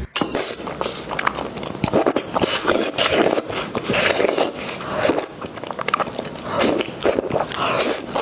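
Close-up eating sounds of spicy noodles with toppings being bitten and chewed, with irregular wet bursts and sharp clicks.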